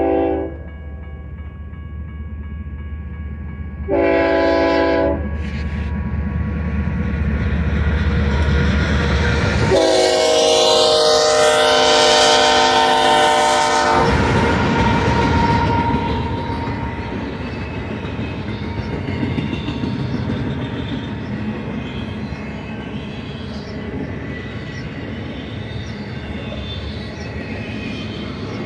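Locomotive horn on a BNSF freight train's lead GE diesel: a blast ending just after the start, a short one about four seconds in, and a long, loud one from about ten to fourteen seconds as the locomotives pass, over a low diesel engine rumble that builds as they near. After that, the steady rolling rumble and clatter of double-stack intermodal container cars going by.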